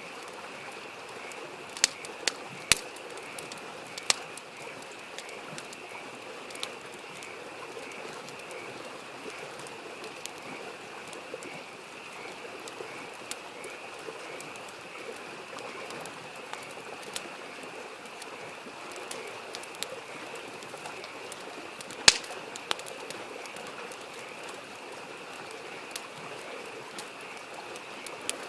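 Campfire crackling, with scattered sharp pops, the loudest about 22 seconds in, over the steady babble of a mountain stream and a continuous high chorus of frogs.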